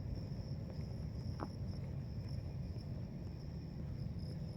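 Insects trilling: a steady, high, continuous drone over a low background rumble.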